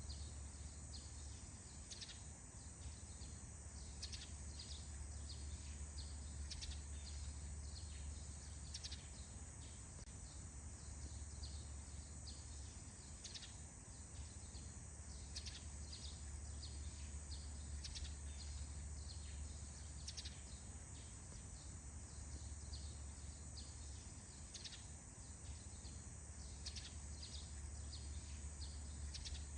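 Faint morning birdsong in a forest: many short, high chirps scattered throughout, over a steady low hum and a thin high hiss.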